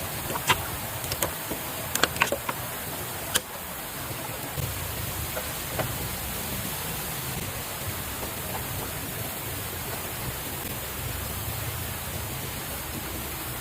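Steady rushing of water, with a few sharp knocks in the first few seconds.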